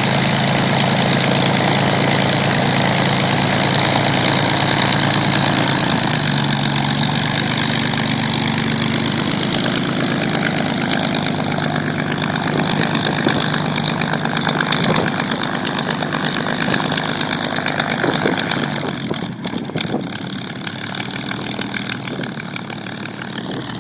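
Supermarine Spitfire's V-12 piston aero engine running steadily at idle after start-up, the sound easing a little past the halfway mark.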